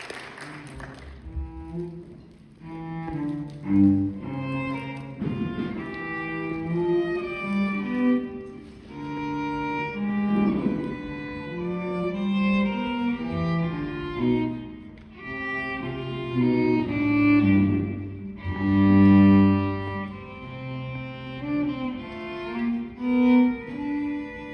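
Live pit band playing the slow instrumental introduction to a musical-theatre song, with cello and violin carrying sustained melodic lines over bass notes.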